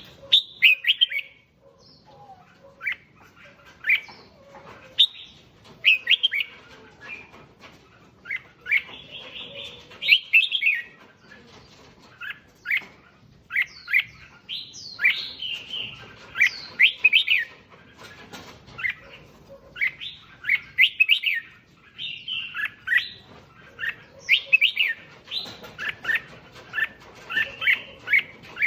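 Red-whiskered bulbul singing: short, quick, clear phrases repeated about every second, with brief gaps between them. The phrases come thicker in the second half.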